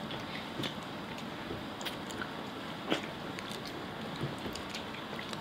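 People quietly chewing pickled fish, with scattered small mouth clicks over a steady room hiss; the most distinct click comes about three seconds in.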